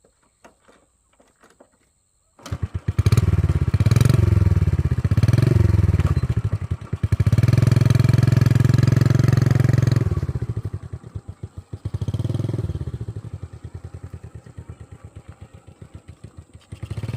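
Old motorbike engine starting up abruptly about two and a half seconds in after a few small clicks, then revved up and down, held high for a few seconds, and dropping back to a pulsing idle with one more short blip of throttle.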